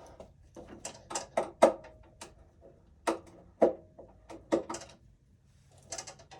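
Irregular clicks and knocks of hands working inside a breaker panel, wires and metal parts being pushed and fitted into place, with a short pause about five seconds in.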